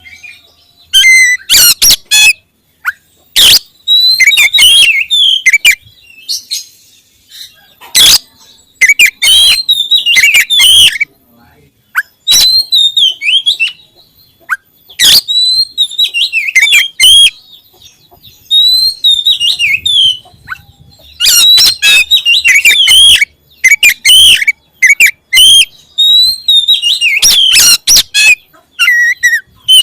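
Oriental magpie-robin (kacer) singing loudly in bursts of rapid, varied whistles and sharp chips, broken by short pauses.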